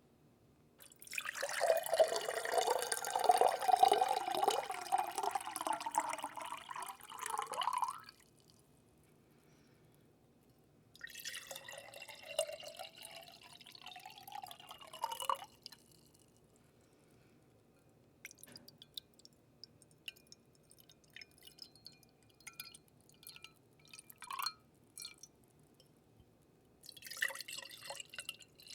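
Water being poured into a vessel twice, its pitch rising as the vessel fills, then scattered single drips, and another pour starting near the end.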